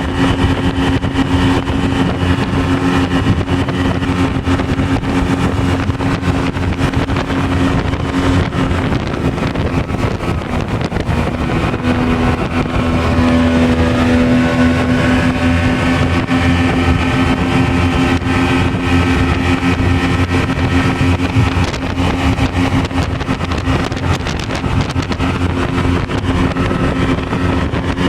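Speedboat engine running steadily at cruising speed, loud, over a rushing noise. About twelve seconds in, the engine note falters briefly and picks up again a little higher.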